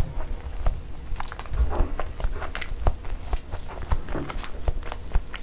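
Close-miked chewing of boiled egg in masala gravy: an uneven run of short mouth clicks and smacks over a low rumble.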